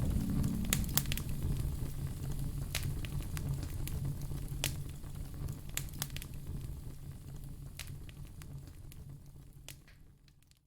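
Wood fire in a fireplace crackling: scattered sharp pops over a low steady rumble of flames. It fades out gradually toward the end.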